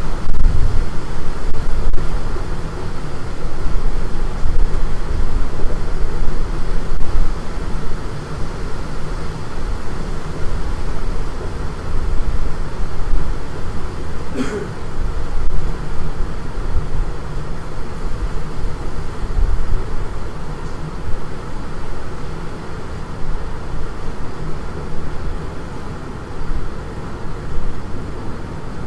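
Strong storm wind buffeting the microphone: loud, uneven low noise rising and falling in gusts. A brief sharp sound cuts through about halfway in.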